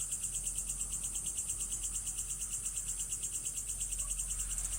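Insects chirping in a steady, rapidly pulsing high-pitched chorus.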